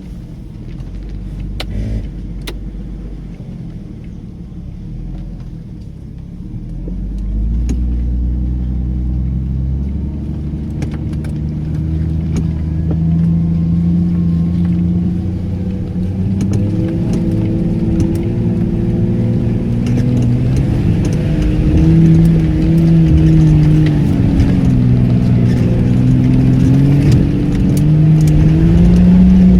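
A car engine revving under load as it climbs a steep hill. Its pitch rises and falls repeatedly, and it gets louder about seven seconds in and again over the second half.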